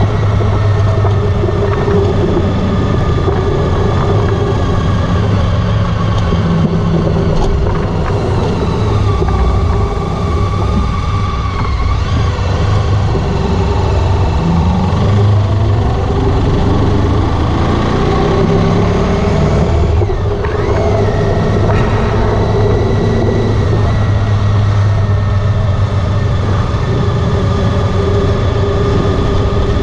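Honda ST1300 Pan European's V4 engine running steadily during a ride, its pitch rising a couple of times around the middle as it accelerates.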